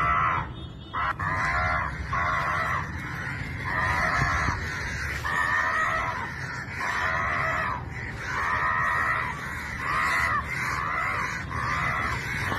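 Repeated harsh crow-style caws, one after another, about one a second, each a drawn-out call.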